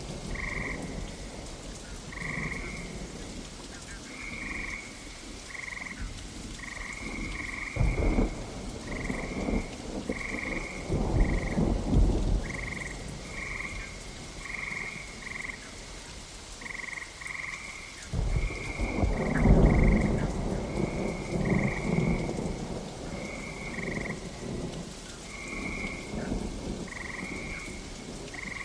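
Steady rain with frogs calling in a long series of short croaks, one or two a second. Thunder rumbles swell about eight and eleven seconds in, and a louder peal breaks out suddenly about eighteen seconds in.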